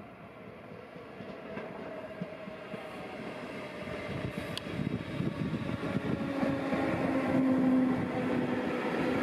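NS Sprinter electric multiple unit approaching and running in along the platform, its wheel and rail noise growing steadily louder. A whine slowly falls in pitch, and a lower hum joins it past the middle as the train comes close.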